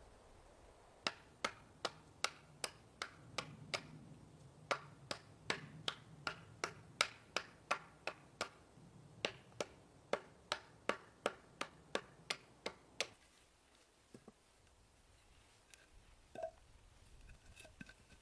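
A rapid series of sharp clicks or knocks, about three a second, in three runs with short pauses between them, followed by a few faint scattered ticks.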